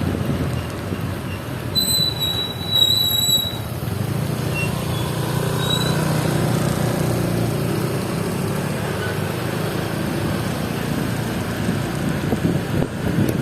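Wind rushing over the microphone with a steady low rumble, typical of riding a motor scooter on the road, and a brief high squeal about two seconds in.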